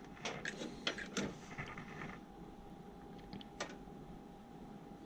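A quick run of small clicks and rattles in the first two seconds, then a single click a little past the middle, over a faint steady hum.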